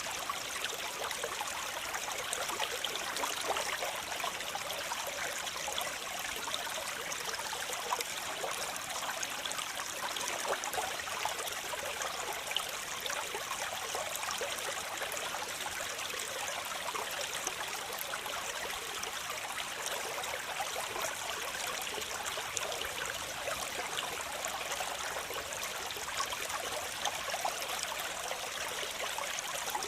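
Waterfall: water falling and splashing in a steady, unbroken rush, with no letup and no other sound.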